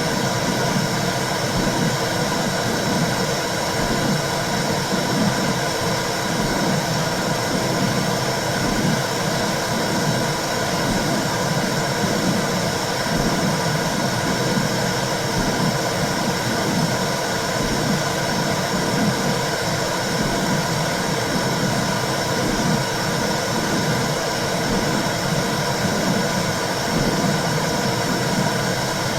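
Womb sound for soothing babies: a steady, low whooshing noise with a faint uneven pulsing in it.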